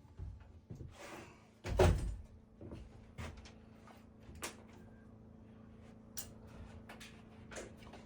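Wooden knocks and clunks from carpentry work, with a short scrape about a second in and the loudest thump just under two seconds in, then scattered lighter taps and clicks.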